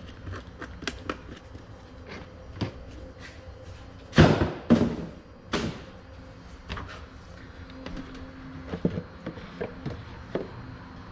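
Plastic oil jugs and a funnel being handled during an engine oil refill: scattered light taps and clicks, with three louder knocks about four to six seconds in.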